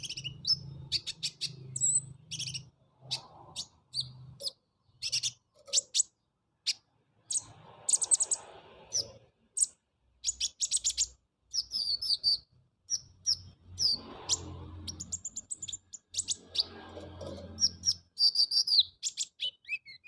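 Kolibri ninja sunbird singing a fast, varied song of sharp high chirps and trills in repeated bursts, with phrases copied from lovebird and canary roll song. A low hum sits underneath at times.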